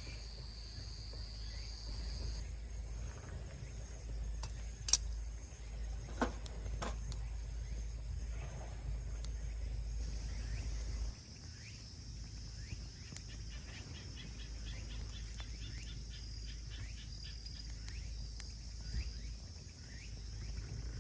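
Insects trilling steadily in the background over a low rumble, with a few sharp pops from the burning wood fire. The rumble drops away suddenly about halfway through.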